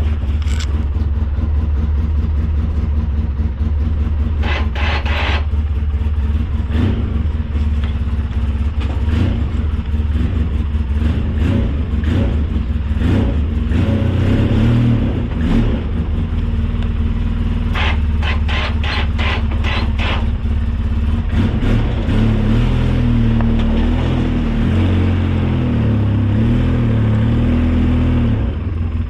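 Engine of a snow-plowing machine running steadily, its pitch shifting as it works in the second half. Two short bursts of rattling are heard, one about four seconds in and one about eighteen seconds in.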